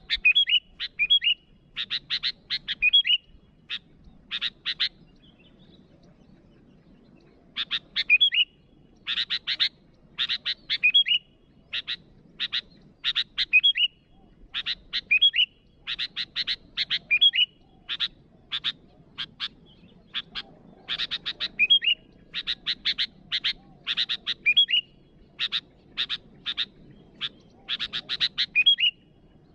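Sooty-headed bulbul (kutilang) calling in quick bursts of sharp chattering notes with short slurred whistles, in groups roughly every second, with a pause about five seconds in. This is a lively challenge call that draws rival bulbuls.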